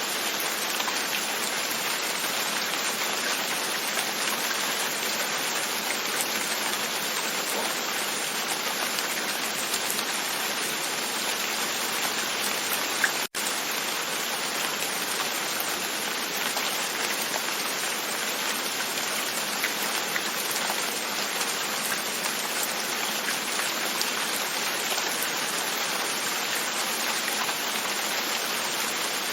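Steady rain, with drops tapping gently on a window pane. The sound cuts out for an instant about 13 seconds in, then carries on unchanged.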